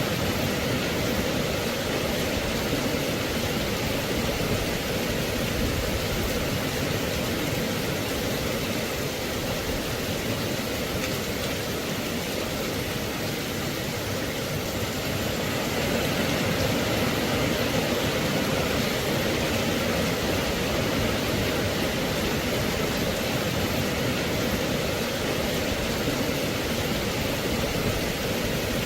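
Steady rain, an even hiss with no separate drops, thunder or other events standing out.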